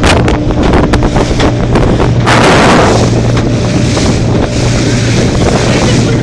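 Wind buffeting the microphone on a moving boat, over a steady low hum from the boat's engine and the rush of water.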